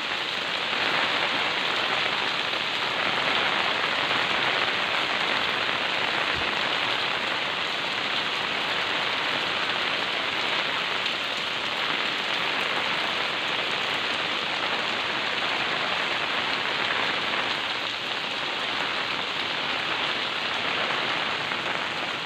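Steady rain falling, an even hiss without pause or change.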